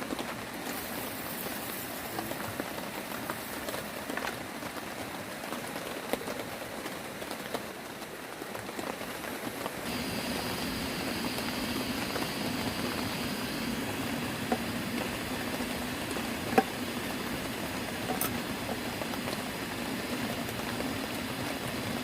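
Steady rain falling, an even hiss with scattered louder drops ticking. It grows a little louder and denser about ten seconds in, and one sharper tap stands out about sixteen seconds in.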